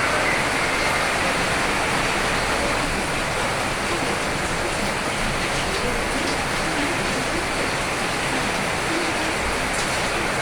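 Steady rain falling, a continuous even hiss with no single drops or gusts standing out.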